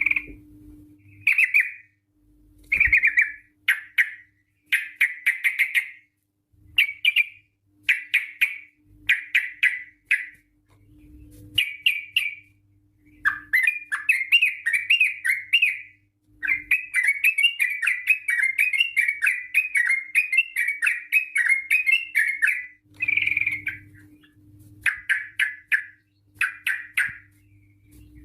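Yellow-vented bulbul singing in short, bubbling chattering phrases with pauses between them, and in the middle a long unbroken run of rapid notes (a long 'ropel').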